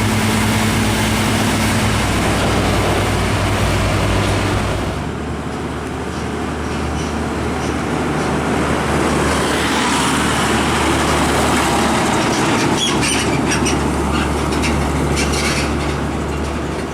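Heavy diesel truck engines running loud and steady, the engine hum changing abruptly about five seconds in. A run of quick rattling clicks comes over it in the last few seconds.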